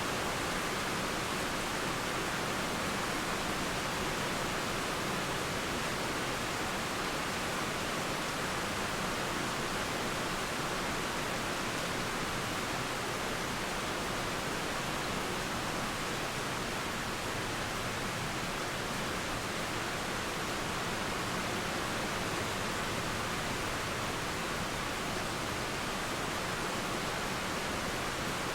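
Steady rain and flowing water making an even, unchanging hiss.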